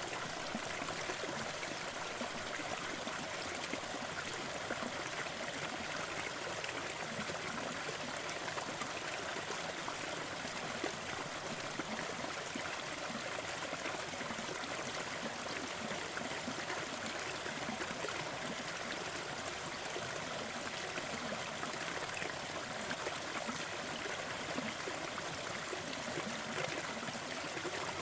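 Waterfall running steadily: an even rush and splash of falling water, mostly mid and high in pitch with little low rumble.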